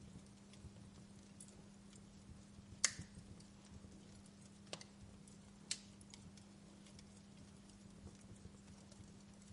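Wood fire crackling softly, with scattered sharp pops, the loudest about three seconds in, over a low steady hum.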